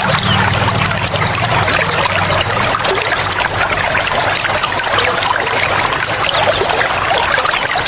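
Water running and splashing steadily, with small songbirds chirping over it in quick short high calls, thickest in the middle. A low hum underneath fades out a couple of seconds in.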